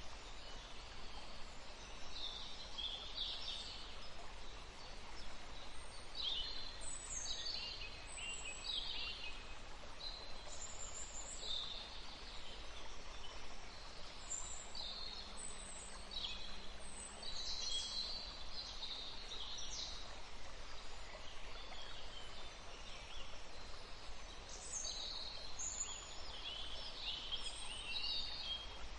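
Several songbirds chirping and trilling in quick, high, overlapping phrases over a steady background hiss.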